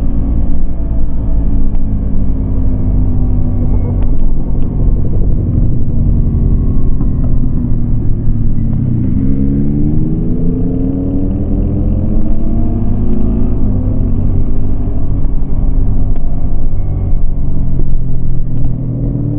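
Yamaha MT-25 parallel-twin engine running under throttle. About eight seconds in the engine note drops, then rises steadily as the bike accelerates, and it settles back to a steady run.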